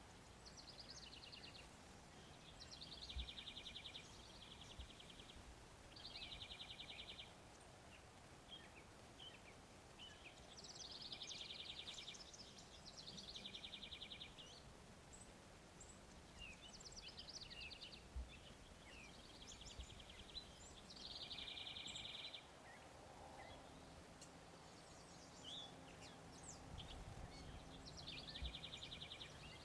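Small birds giving short, rapid, buzzy trills, faint and repeated every second or two, with a few soft low thumps between them.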